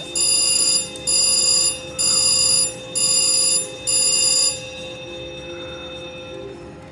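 Slot machine's electronic bell ringing in five even bursts about a second apart, then stopping about four and a half seconds in, over steady casino background noise.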